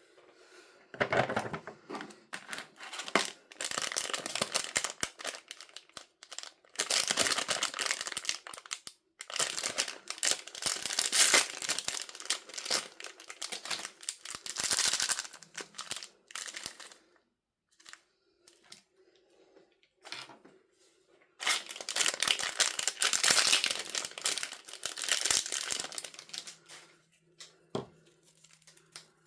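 Packaging being crinkled and torn open by hand in three long stretches of dense crackling, with short quiet pauses between.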